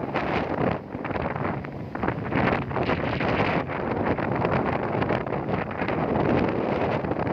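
Wind buffeting the microphone aboard a moving ferry, over the steady rushing noise of the boat under way.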